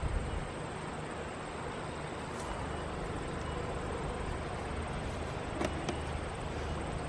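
Steady buzzing of honeybees around an open or freshly closed hive, with a couple of faint clicks near the end.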